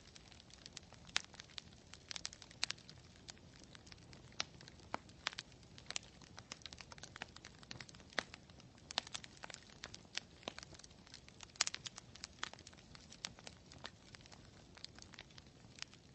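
Campfire crackling: irregular sharp snaps and pops of burning wood, several a second, over a faint low rumble.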